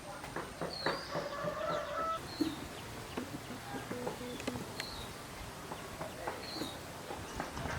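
Chickens clucking, with short high bird chirps every second or two.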